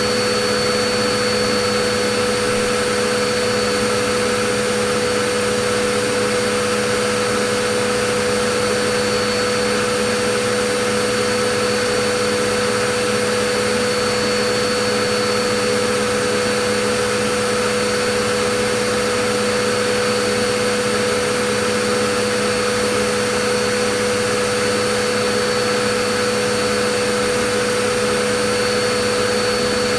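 Vacuum cleaner running steadily, a constant whooshing hiss with a steady whine at several pitches.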